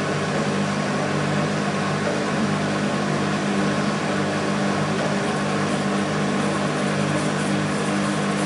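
Beko WMB 51441 washing machine running steadily, a constant motor hum over drum and water noise with no pauses or changes in speed, as in its spin.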